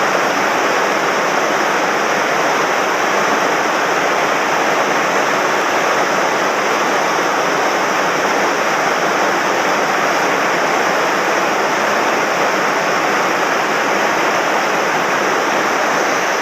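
Rushing water of a mountain stream swollen after heavy rain, a steady loud roar of fast current.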